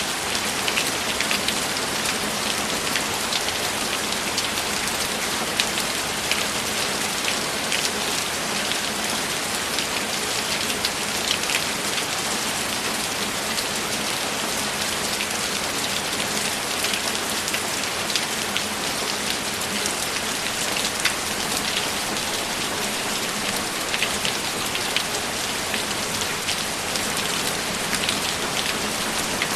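Steady heavy rain: an even hiss of falling rain with many sharp single drops ticking through it.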